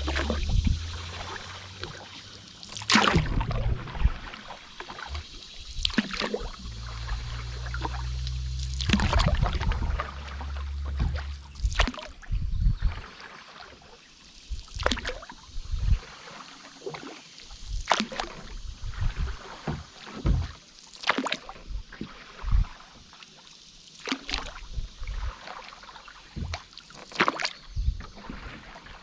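Canoe paddle strokes in river water, a splash about every three seconds, with smaller drips and gurgles between them. A low rumble runs under the first eleven seconds or so.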